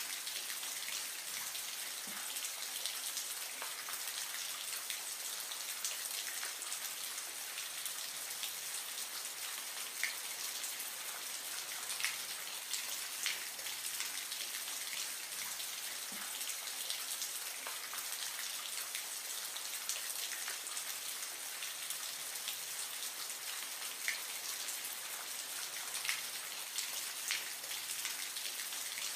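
Aquarium water splashing and trickling: a steady hiss with many small, irregular drips and plinks.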